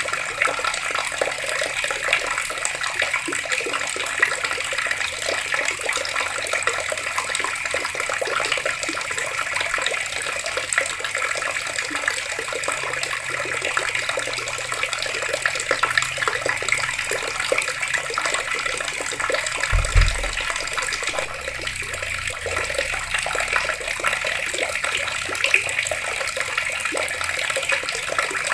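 Water running steadily from taps, an even splashing rush that never stops. A brief low thump sounds about two-thirds of the way through.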